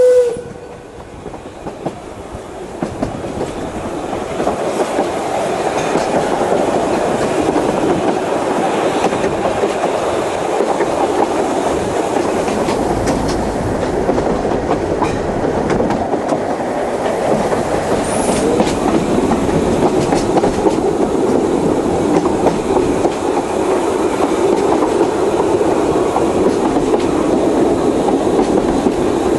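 Isle of Man Steam Railway narrow-gauge steam train running along the track, with a steady rumble and clatter of wheels on rails. The train's whistle cuts off right at the start, and the running noise builds over the next few seconds before holding steady.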